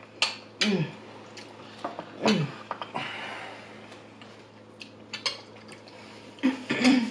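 Cutlery clicking and scraping against plates during a meal, several sharp clinks, with a few brief hums or murmurs from the eaters between them.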